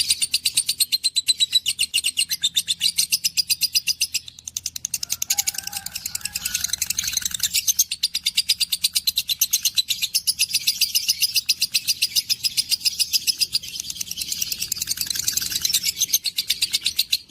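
Budgerigars chattering and warbling to each other in a fast, continuous stream of high chirps, with a brief lull about four seconds in.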